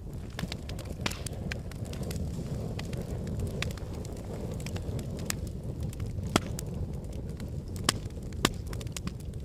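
Wood fire in a fireplace: logs burning with a steady low rumble of flames and scattered sharp crackles and pops, the loudest pops coming in the second half.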